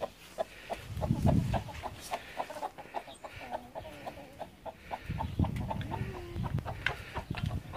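Backyard hens clucking, a rapid run of short clucks. Two spells of low rumble come about a second in and again about five seconds in.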